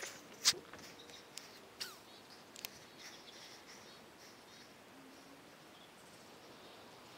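Quiet outdoor background with a few short, sharp sounds in the first three seconds, the loudest about half a second in.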